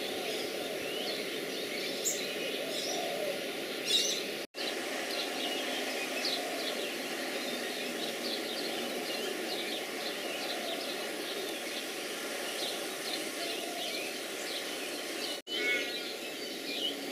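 Many small birds chirping and twittering over a steady low background noise. The sound cuts out briefly twice, about four and a half seconds in and near the end.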